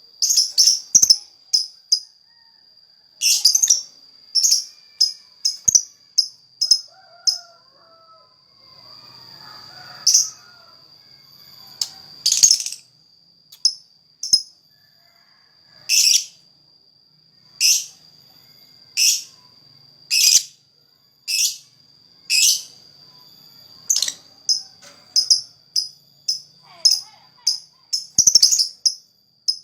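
Lakbet bird calling vigorously: short, sharp, very high notes, fired in quick clusters and then singly every second or two. A thin, steady high whine runs underneath throughout.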